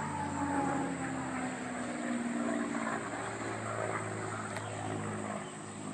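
Propeller airplane flying over during an air show, its engine drone sliding slowly lower in pitch as it passes, fading near the end.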